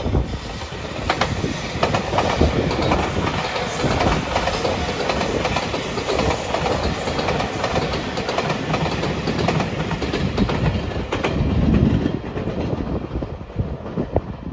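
JR Shikoku 8000 series limited-express electric train passing close by, with the wheels clicking repeatedly over the rail joints.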